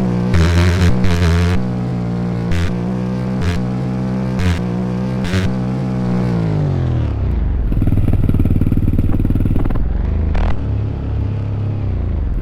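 Dirt bike engine held at steady revs, then the revs fall away about two-thirds of the way in, leaving a rough, clattery low rumble.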